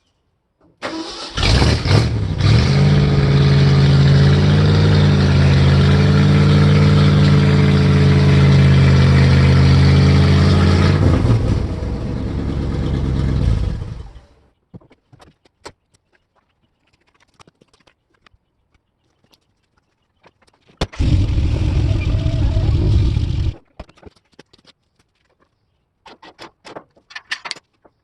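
A motor running loudly and steadily for about thirteen seconds, with a low hum and a wavering whine, then stopping; it runs again briefly about 21 seconds in.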